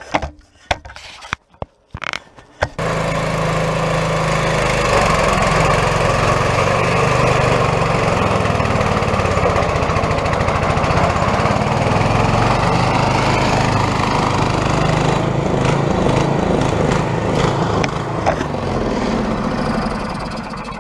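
Small 8 hp single-cylinder Briggs & Stratton engine of a Quadractor, after a few knocks, catches about three seconds in and runs under load as the machine pulls out, its pitch rising and falling. Running with the fuel valve shut off, it dies away near the end.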